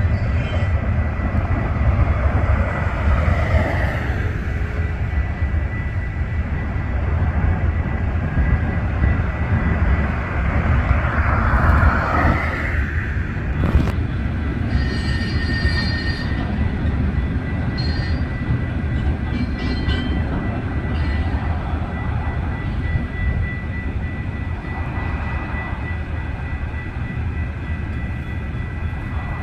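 A train passing with a steady, heavy rumble of wheels on rail, and a thin steady high whine running over it.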